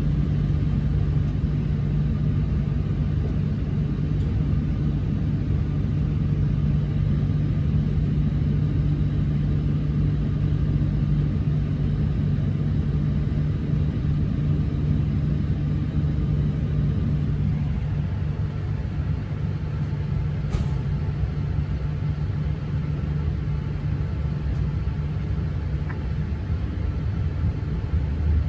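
Steady low rumble and hum of a Shinkansen train, with a constant droning tone; part of the hum fades out about two-thirds of the way through.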